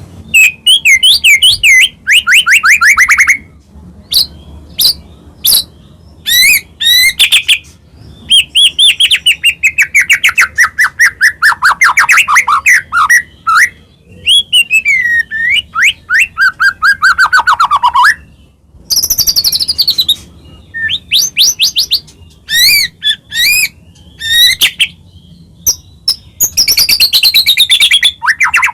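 White-rumped shama singing loudly and almost without pause: phrases a second or two long of rapid trills and fast strings of notes, many sliding down in pitch, with brief gaps between them.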